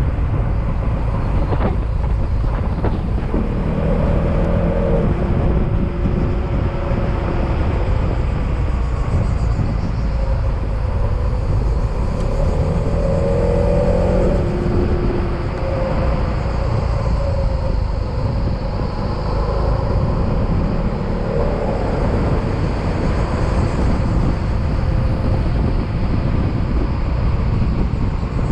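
Yamaha XMAX maxi-scooter's single-cylinder engine running under way, buried in a steady rush of wind on the microphone. A few short pitched tones rise and fade now and then.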